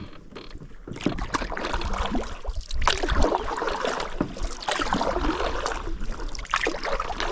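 Canoe paddle strokes in lake water: splashing and swirling water, with a stroke about every two seconds.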